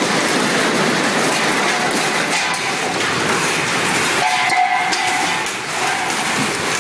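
Library shaking in an earthquake: a loud, steady rattling and clattering of shelves and contents. A brief pitched tone sounds about four and a half seconds in.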